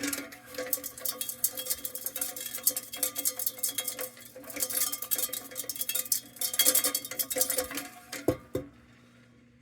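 The lantern's metal fount being shaken, with something loose rattling and clinking inside it in quick bursts and brief pauses. It ends with a couple of knocks. The loose piece is what the restorer takes for a little hunk of carbon.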